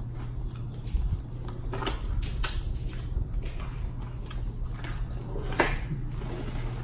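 A person chewing a mouthful of shrimp and salad close to the microphone: scattered soft mouth clicks and smacks, a handful in all, over a steady low hum.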